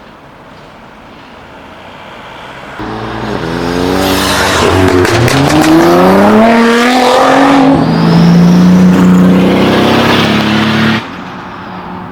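Tuned car's engine accelerating hard away, its pitch rising twice through a gear change, then holding a steady loud note before cutting off suddenly near the end.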